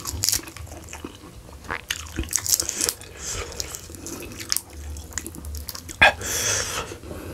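Close-miked eating: chewing and wet mouth sounds as roasted sheep's-head meat is torn off by hand and eaten, with irregular small clicks and smacks and one loud sharp click about six seconds in.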